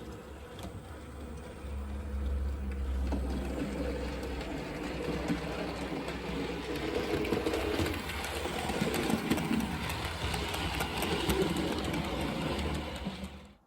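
A model train running on the layout's track: a small electric motor and the wheels on the rails, with scattered light clicks. It stops shortly before the end.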